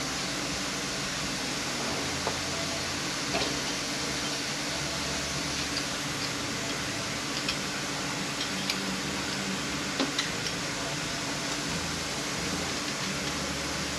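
Steady hum and hiss of a shop fan, with a handful of faint, light metallic clicks as hand tools pick at parts inside a Mercedes 722.118 automatic transmission.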